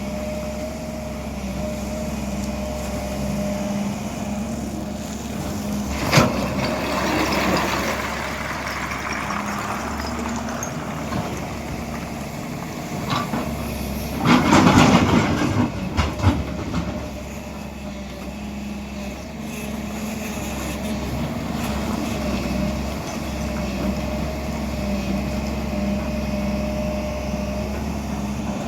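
Excavator's diesel engine running steadily, with a sharp knock about six seconds in and a burst of louder clattering and knocks around the middle.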